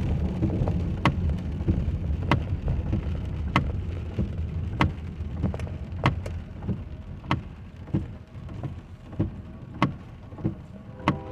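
Inside a car in the rain: low tyre and rain noise that dies down as the car slows, with a sharp click about every second and a quarter and fainter clicks between them. A few steady tones come in near the end.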